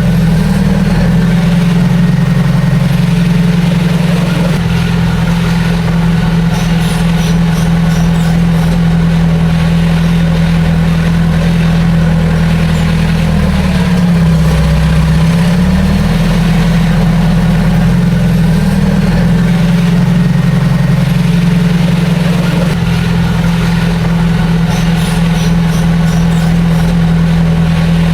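Heavy diesel engine of earthmoving machinery running steadily. Its pitch sags briefly about halfway through and then comes back up.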